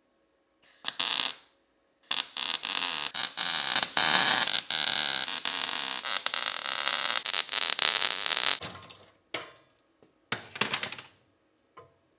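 MIG welder laying weld on the steel sill panels with an even crackle. There is one short burst, then a long run of about six and a half seconds, then three short tack bursts that start and stop abruptly.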